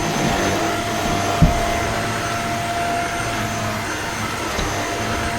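Shark stick vacuum cleaner running steadily on its high setting over stair carpet, a steady motor hum with one mid-pitched tone, its brush head pulling hard on the pile. A single short knock about a second and a half in.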